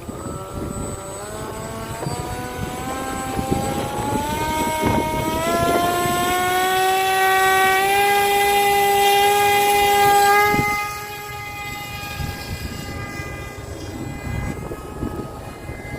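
Homemade model airplane's motor and propeller whining, rising steadily in pitch and loudness for several seconds, holding high, then dropping suddenly in pitch and loudness about ten and a half seconds in and running on fainter.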